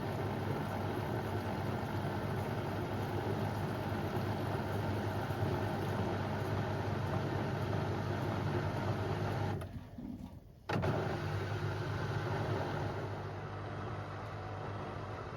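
Beko WM74135 washing machine running with a load of door mats, motor and drum giving a steady low hum. About ten seconds in the sound dies away for about a second, then comes back suddenly.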